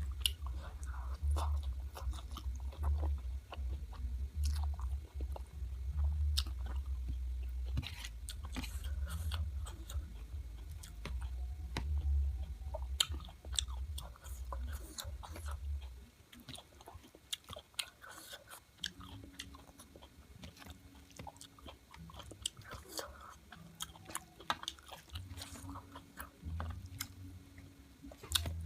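Close-miked chewing and biting of local chicken, with many short wet clicks and smacks of the mouth and a few crunches. A low rumble underneath stops about halfway through.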